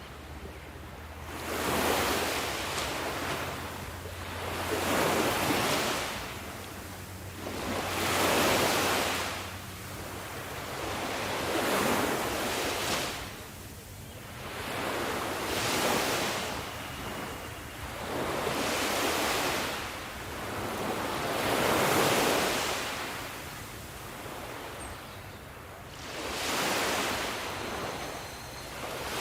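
Sea waves breaking on a shore, rising and falling in regular surges, one every three to four seconds.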